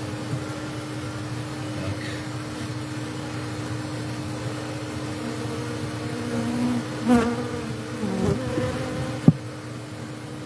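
Honey bees buzzing steadily around an exposed hive, with one bee's buzz swelling and wavering in pitch as it passes close about seven seconds in. A single sharp click comes near the end.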